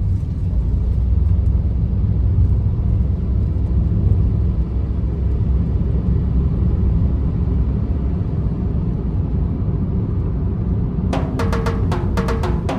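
Car driving, a steady low rumble of road and engine noise. About eleven seconds in, music starts with a run of struck, marimba-like notes.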